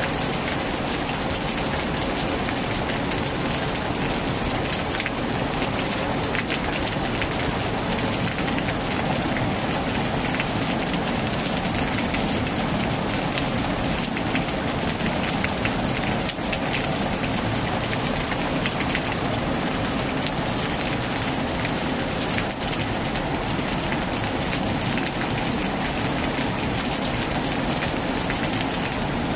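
Heavy rain falling steadily on a tin roof, a dense, even hiss of countless drop hits with no let-up.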